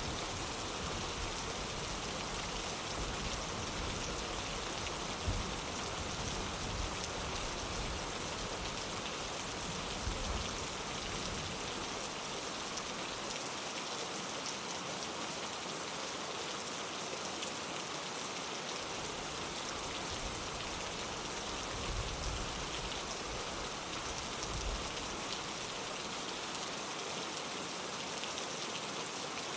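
Steady rain falling on a window, an even hiss throughout. A low rumble comes and goes beneath it in the first part and again about two-thirds of the way through.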